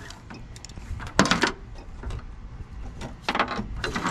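Scrap items being handled and shifted around: a few knocks and clunks, the loudest just over a second in and another a little past three seconds.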